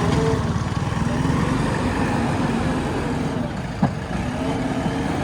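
JCB backhoe loader's diesel engine running, its pitch rising and falling slightly, with a single sharp knock a little under four seconds in.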